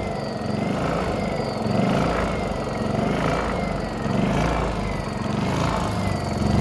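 Small gasoline engine of a portable generator running steadily, freshly started after a carburetor rebuild and spark plug cleaning. Its pitch and loudness rise and fall gently about once a second.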